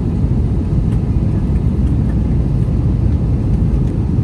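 Steady low rumble of an Airbus A321 airliner's cabin: noise of its IAE V2500 turbofan engines and the airflow, heard from inside the passenger cabin.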